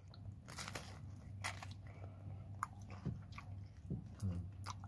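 Biting and chewing a crispy fried lumpiang shanghai (Filipino spring roll): several short, sharp crunches of the fried wrapper spread through the chewing.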